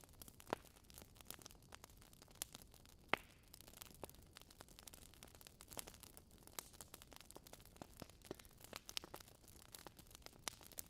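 Faint crackling of logs burning in a fireplace: many small, irregular pops and snaps over a soft hiss, with one sharper pop about three seconds in.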